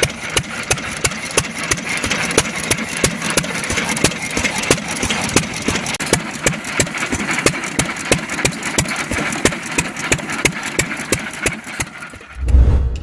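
1916 Fairbanks Morse Model Z single-cylinder engine running, with a fast, even clatter of sharp knocks, several a second. A loud low thump comes near the end.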